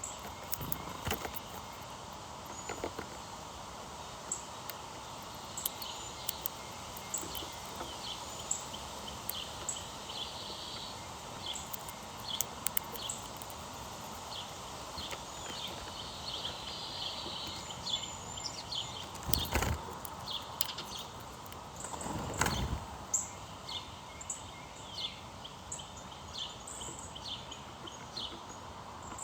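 Small birds chirping, many short high calls scattered throughout over a steady background hiss. Two brief low rumbles come about two-thirds of the way through.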